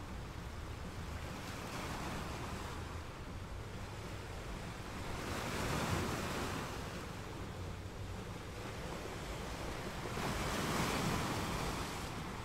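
Steady rushing water with a low rumble underneath, swelling louder twice, about halfway through and again near the end, like waves washing in.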